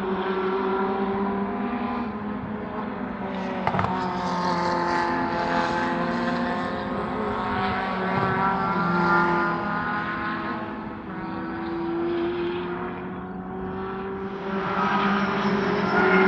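Racing car engines running on the circuit: a steady engine drone whose pitch drifts slowly up and down, with a sharp click about four seconds in.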